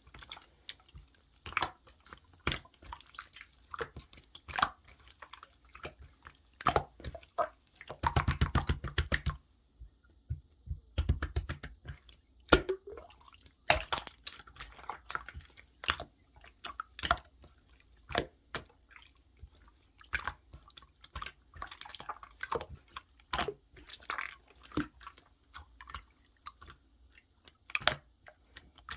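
Clear slime being squished and pressed by hand: a run of sticky clicks and squelches, with two denser crackling stretches about eight and eleven seconds in.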